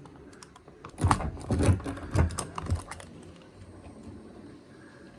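A quick run of small clicks and knocks for about two seconds, then quieter, from a heavy all-metal model locomotive being handled.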